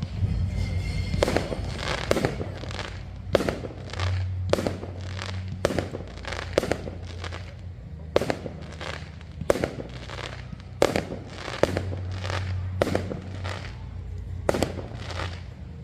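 A bonfire-night fireworks display: aerial firework shells bursting with sharp bangs, about one a second at irregular spacing, each trailing off briefly, over a steady low rumble.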